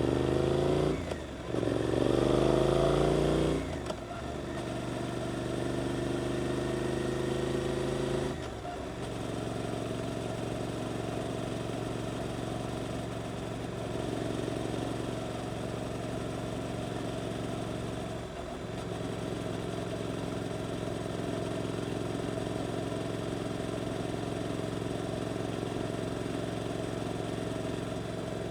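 Suzuki GSX-8S parallel-twin engine through an Arrow aftermarket exhaust, revving up hard through quick gear changes in the first few seconds. It then settles to a steady engine note, which drops lower about eight seconds in and holds even for the rest.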